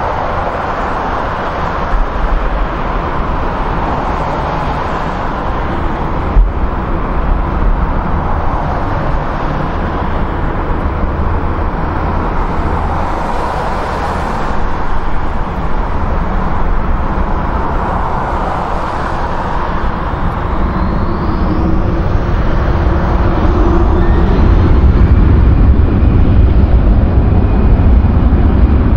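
Jet airliner engine noise, a steady rushing sound with a deep rumble that grows louder over the last third as the aircraft comes closer, with a faint rising whine partway through.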